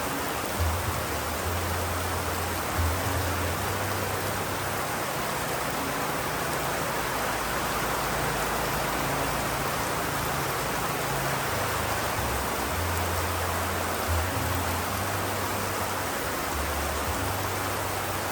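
Steady rain hiss. Underneath it runs a soft low drone of deep held notes that change pitch every few seconds.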